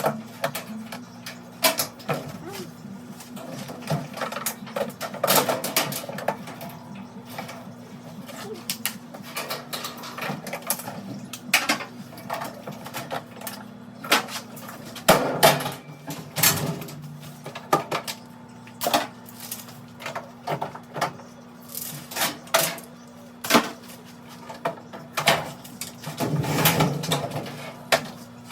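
Irregular clicks, knocks and clatter of hands and tools working on a top-load washer's parts, over a steady low hum.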